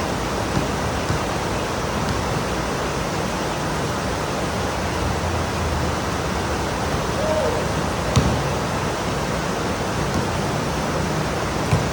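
Heavy pouring rain, a steady even hiss, with two short knocks, one about two-thirds of the way in and one near the end.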